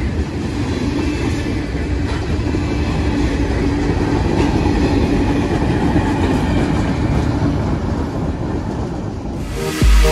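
Freight train cars, tank cars and covered hoppers, rolling past on steel wheels: a steady, loud rumble of wheels on rail. About half a second before the end, electronic dance music with a heavy pulsing beat cuts in over it.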